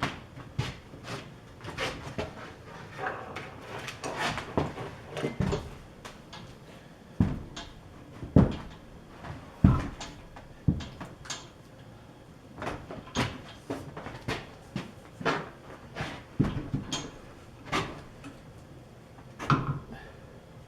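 Heavy drill press being walked across the floor, giving irregular clunks and thuds about once a second as its base knocks down. The loudest thuds come about eight and ten seconds in.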